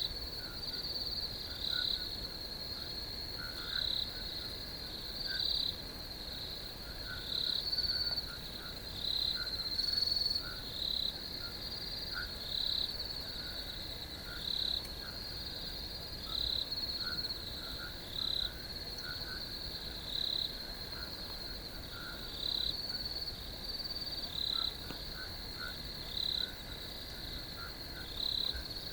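Crickets chirping in a steady high trill, with louder pulsed chirps repeating every second or two and fainter, lower short calls underneath.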